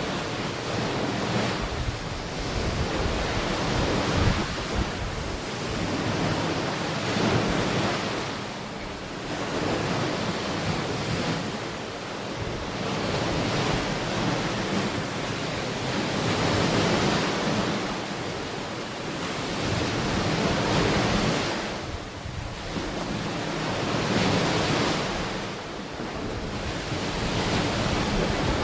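Ocean waves rolling onto a shore, a continuous wash of surf that swells and falls back every few seconds, with some wind on the microphone.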